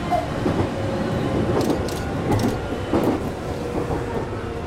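Shizuoka Railway 1000 series electric train running along the line, heard from inside the front car: a steady rumble of wheels on rail with a few sharp clacks about halfway through.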